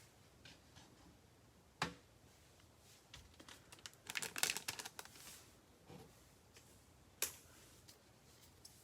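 Handling noises in a small room: a sharp click about two seconds in, a quick run of clicks and rustling around four to five seconds in, and another sharp click near seven seconds.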